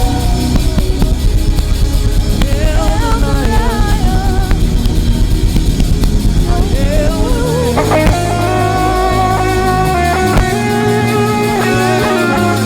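Live worship band playing: a bending melodic lead line over drums and bass, shifting to held chords about eight seconds in.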